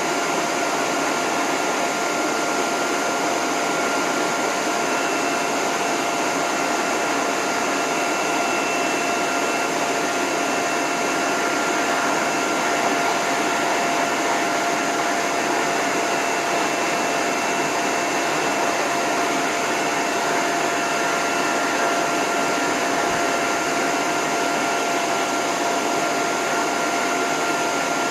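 Dog-grooming hose dryer (high-velocity blower) running steadily on its lowest setting with the end nozzle off: a steady rush of air with a constant motor whine.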